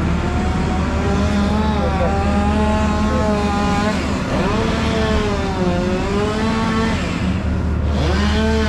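A siren wailing, its pitch sliding down and back up several times, over a steady low engine drone.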